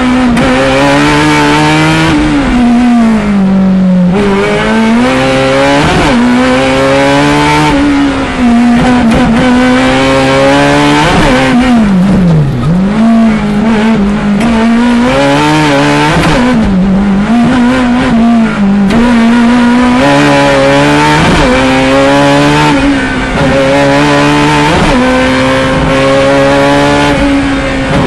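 Fiat 500 Maxi race car's air-cooled two-cylinder engine, heard from inside the cabin, running hard at high revs. Its pitch climbs and drops over and over as it accelerates, shifts and lifts off, with several sharp drops in pitch.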